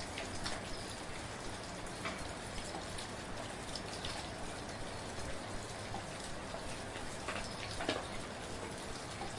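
Steady, gentle rain falling, an even hiss with scattered individual drops ticking close by.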